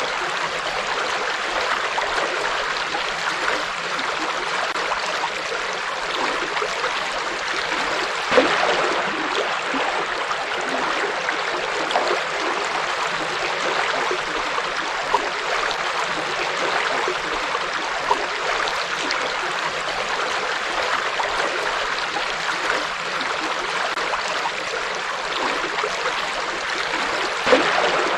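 River water flowing over rocks: a steady rushing with small splashes and gurgles, one slightly louder splash about eight seconds in and another near the end.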